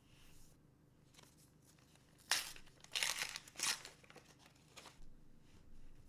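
Trading card booster pack wrapper being torn open and crinkled. A sharp rip comes a little over two seconds in, then a few more crinkling rips over the next second and a half, and lighter rustles after.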